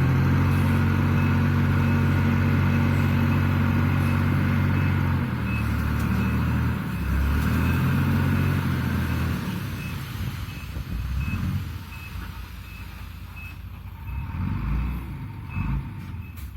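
Dump truck engine running, with its reversing alarm beeping at an even pace. The engine sound drops away about halfway through while the beeping goes on.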